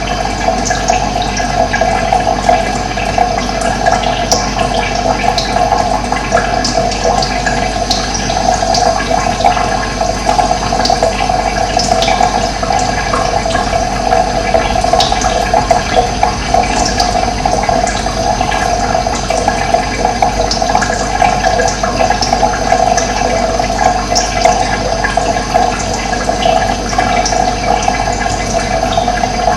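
Running water, a steady rushing with no letup, with short high bird chirps scattered through it.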